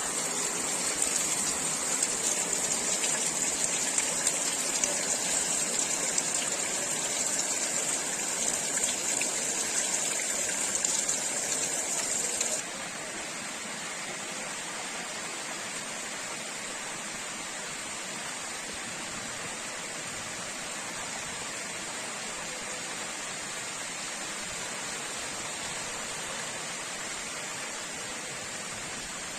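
Heavy rain falling, a dense, even hiss of water. About twelve seconds in, it drops suddenly to a quieter, steadier hiss of rain.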